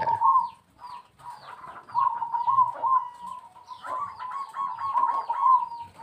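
Birds calling: a steady run of quick chirps, each falling in pitch, several a second, over a continuous cooing.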